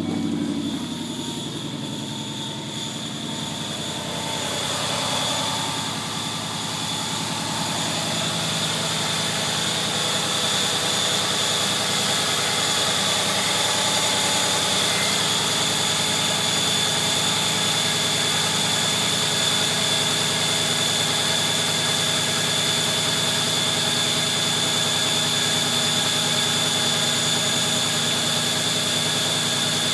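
2014 Ford Mustang GT's 5.0-litre V8 idling after a cold start, with a steady high-pitched squeal from the accessory drive belt running over it.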